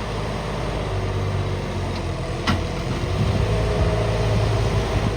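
Diesel engine of farm machinery running steadily with a low, even hum, and a single short click about two and a half seconds in.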